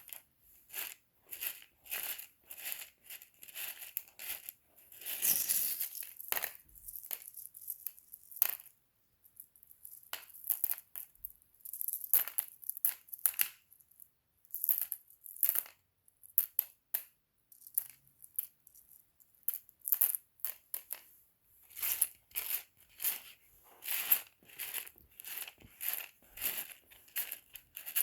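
Small rough opal chips clinking and rattling against each other as they are moved and shuffled, in irregular clusters of sharp clicks.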